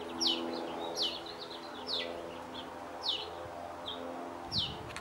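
A bird repeating a short chirp that slides downward, roughly once a second, over a steady low hum. Near the end the hum drops away and a low scuffing sound comes in.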